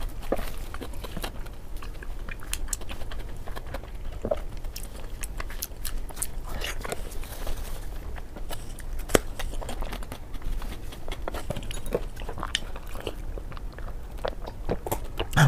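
Close-up chewing of a mouthful of fatty braised pork: soft, irregular wet clicks and smacks of a closed mouth working the food.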